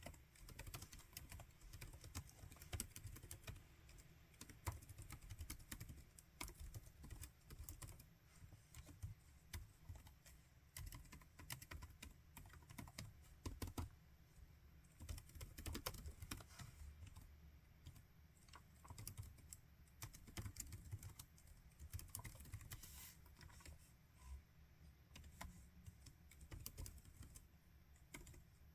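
Laptop keyboard typed on steadily: quick, irregular, soft key clicks with short pauses between bursts of typing.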